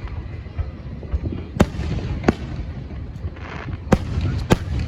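Aerial fireworks going off: four sharp bangs at uneven intervals, a brief crackling hiss just before the third, over a continuous low rumble.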